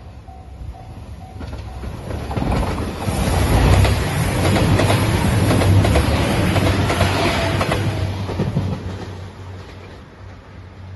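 A level-crossing bell rings in even repeated strokes, fading under the noise by about a second and a half in. Then the JR 2700-series diesel limited express train passes close by. Its wheels clatter over the rail joints and its engines rumble, loudest in the middle, then fade as it runs away.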